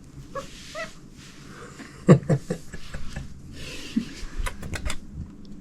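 A cat making a few short vocal calls, with rustling and a quick cluster of sharp clicks about four and a half seconds in.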